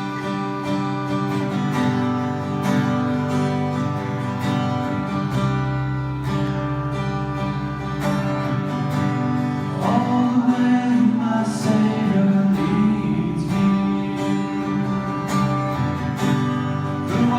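A worship band plays the instrumental introduction to a closing hymn, led by strummed acoustic guitar. The music grows fuller about ten seconds in.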